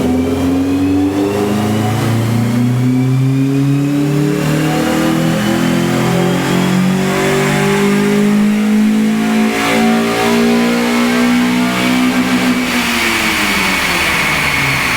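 Acura TSX 2.4-litre four-cylinder with a Fujitsubo exhaust and Injen intake at full throttle on a chassis dyno, climbing steadily through the rev range in one gear under load. Near the end the throttle closes and the engine winds down, while a high whine from the spinning drivetrain and rollers carries on.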